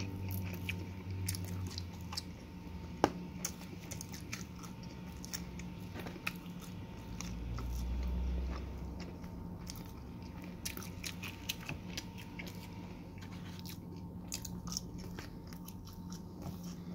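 Someone chewing a mouthful of cheesy garlic pizza, with many small wet mouth clicks and crunches scattered throughout. A steady low hum runs underneath.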